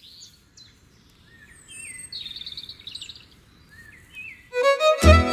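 Wild birds calling and chirping over a faint outdoor hiss, with a longer warbling call about two seconds in. Near the end, folk band music with a violin starts, much louder than the birds.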